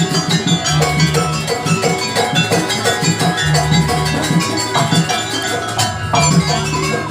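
Live jaranan gamelan music: drums beating a dense rhythm under ringing metal gong-chimes playing repeated pitched notes.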